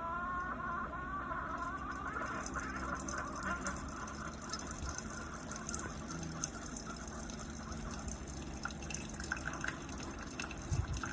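Keurig K-Slim single-serve coffee maker dispensing coffee into a cup: a steady stream of liquid pouring and dripping, with faint tones rising over the first couple of seconds.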